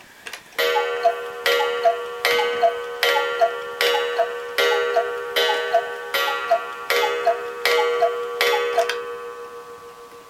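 Clockwork cuckoo clock striking the hour. There are about eleven strikes, each under a second apart, and each comes with the two-note cuckoo call. The last strike rings away over the final second or so.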